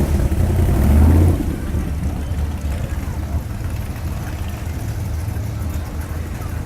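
Classic car engine running at low speed: a low, steady rumble, louder for the first second and a half, then settling a little quieter.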